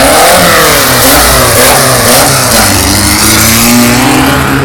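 Volkswagen race car engines running at high revs, their pitch dipping and climbing as they change speed.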